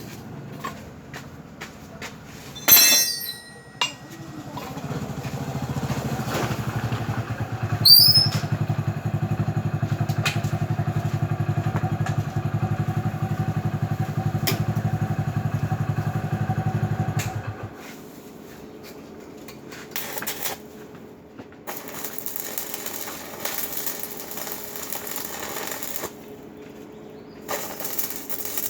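Electric arc welding on steel foundation bolts: a steady low electrical buzz starts about four seconds in and cuts off suddenly about thirteen seconds later, after a short loud crackle. Near the end there is an even hiss.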